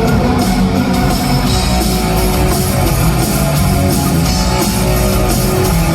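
Rock band playing an instrumental passage with no vocals: electric guitars over a drum kit.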